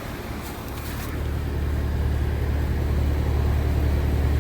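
2015 Carrier Comfort 1.5-ton heat pump outdoor unit in its defrost cycle: a low mechanical hum cuts in suddenly and grows steadily louder, with a brief faint hiss about a second in.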